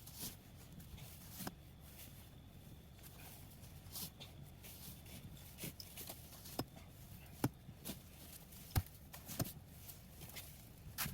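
Snow being cleared from around a car stuck in a driveway: scattered sharp crunches and knocks at uneven intervals over a low rumble.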